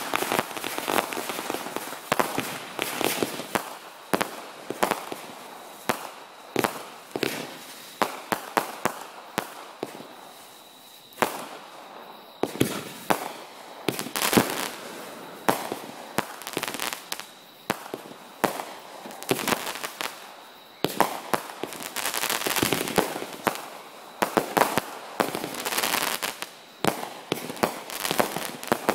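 Fireworks going off: a long run of sharp bangs and crackles, in dense rapid clusters with two brief lulls.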